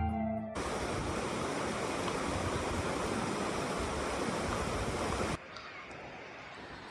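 Heavy rain falling as a steady, dense hiss that cuts off abruptly about two-thirds of the way through, leaving a fainter hiss. Music fades out just at the start.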